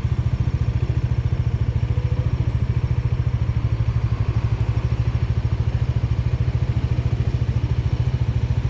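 Bajaj Dominar 400's single-cylinder engine idling, a steady, rapid even beat with no revving.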